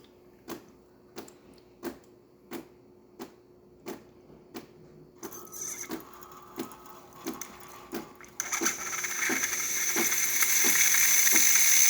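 DeLonghi Magnifica espresso machine in steam mode, ticking evenly about one and a half times a second as it builds steam pressure. A faint hiss begins about five seconds in. About eight seconds in the steam wand starts to hiss loudly, and the hiss grows louder over the next few seconds as the pressure builds.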